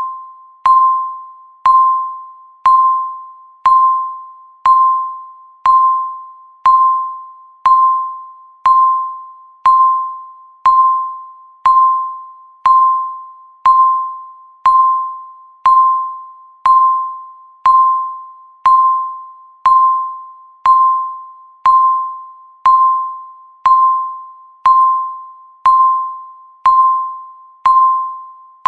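Countdown timer ticking once a second, each tick a single clear chime-like ping that starts sharply and rings away before the next.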